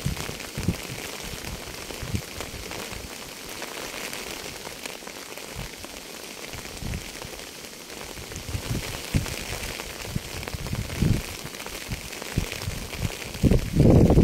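Steady rain falling with an even hiss, with scattered heavier drops landing as low thumps. A run of louder low thumps starts near the end.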